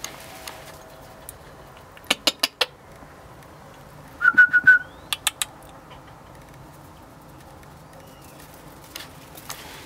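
Bird calls: a quick run of four sharp notes, then about four seconds in four quick high whistled notes, the loudest part, then three more short sharp notes.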